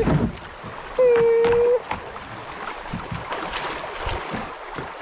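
Small knocks and handling noise in a fishing kayak on a river, with a short steady hum about a second in.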